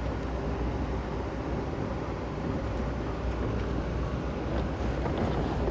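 Steady rumble and rolling noise of a moving Amtrak passenger train, heard from on board, with a few faint ticks.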